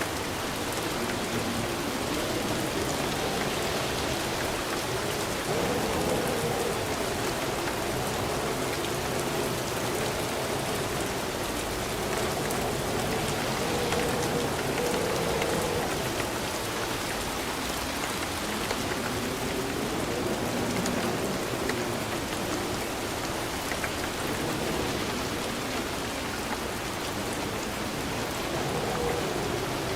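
Steady rain falling and pattering on surfaces, an even, unbroken wash of rain noise.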